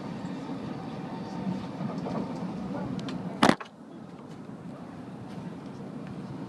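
Steady rumble of a Tokaido Shinkansen running at speed, heard from inside the passenger cabin. A single sharp, loud thump about halfway through is the loudest sound.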